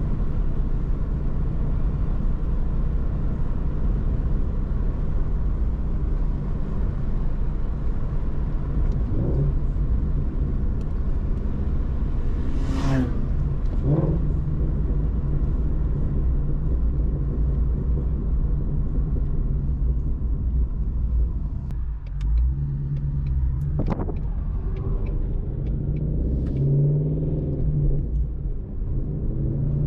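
2019 Shelby GT350's 5.2-litre flat-plane-crank V8 running steadily under way, a continuous low rumble mixed with road noise. The engine note rises and wavers in the last few seconds.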